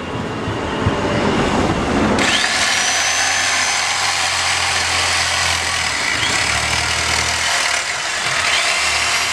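Electric jigsaw cutting through the shell of a fresh green calabash gourd: a loud, steady sawing buzz with a high motor whine that gets going suddenly about two seconds in and runs on with small dips as the gourd is turned against the blade.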